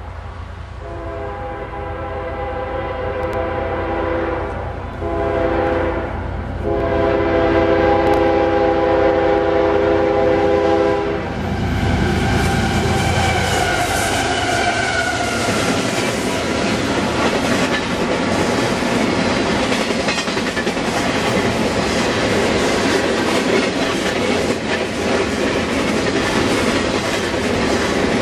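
Canadian Pacific freight locomotive blowing its multi-note horn in the grade-crossing pattern: the tail of a long blast, then long, short, long, ending about eleven seconds in as the locomotive passes with a brief heavy rumble. The freight cars then roll by at about 60 mph with steady rail noise and the clickety-clack of wheels over rail joints.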